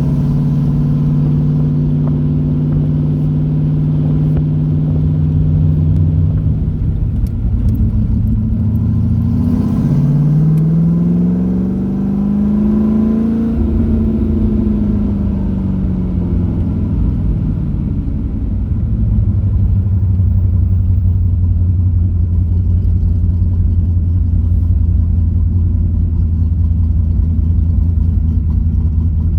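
C3 Corvette's V8 engine heard from inside the car while driving: a steady drone. About ten seconds in the pitch drops, then rises as the car accelerates and eases off again, and it settles into a lower, steady cruising drone near the end.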